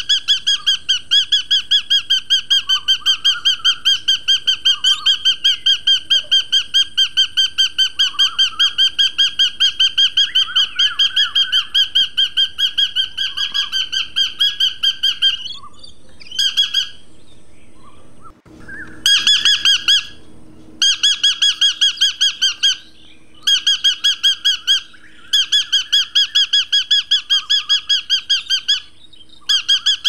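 Bird chirping in a rapid, evenly spaced series of clear, high chirps, several a second, in long runs broken by a few short pauses.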